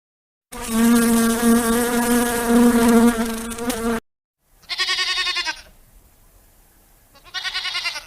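A flying insect's loud, steady buzz lasting about three and a half seconds, followed by two shorter, fast-pulsing trilled calls.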